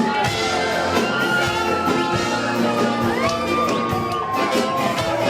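Ska band playing live, a held melodic line sliding in pitch over a steady bass and drum beat.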